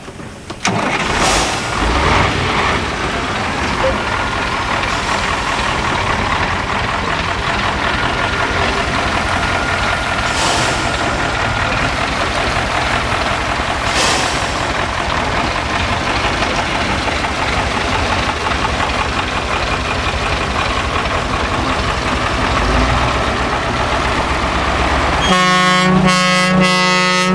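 6x6 Ural prototype trial truck running hard off-road, a loud steady engine-and-driveline noise with a few sharp knocks. Near the end a horn sounds for about two seconds.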